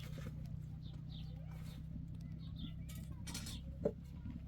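Small birds chirping in short, repeated calls over a steady low hum, with a single short knock near the end.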